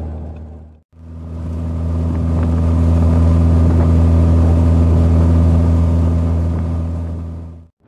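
Triumph Spitfire's 1500 four-cylinder engine running steadily at cruising speed, a constant drone with road noise behind it. The sound drops out briefly about a second in, then fades away near the end.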